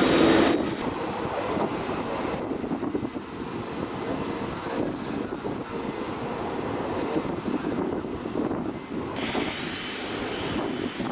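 Airbus A380 jet airliner running on the ground, a steady rumbling engine noise, with a high thin whine that rises steadily in pitch from near the end.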